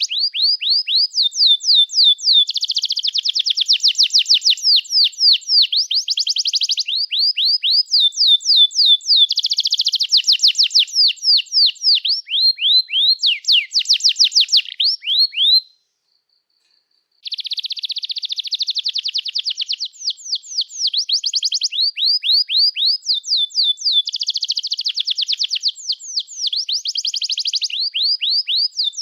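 Domestic canary singing a long, continuous song: runs of fast repeated chirps and buzzy rolls, switching from one trill to the next every second or two. The song stops for about a second and a half about halfway through, then goes on.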